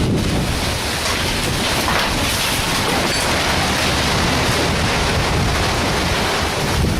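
Loud, steady noise of storm wind and heavy rain.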